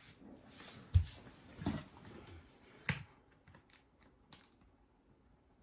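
A few handling clicks and knocks from small hard objects, with a heavy thump about a second in and a sharp click near three seconds, then faint ticks.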